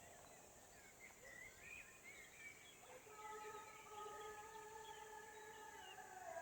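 Faint birds chirping, then from about three seconds in a faint distant drawn-out tone that holds one pitch.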